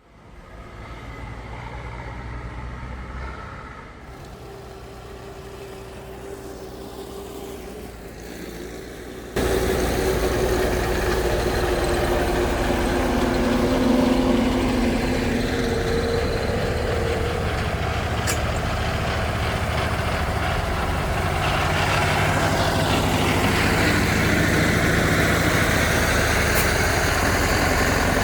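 Tractor engines running and revving, with pitch rising and falling. The sound is quieter at first and jumps suddenly louder about nine seconds in.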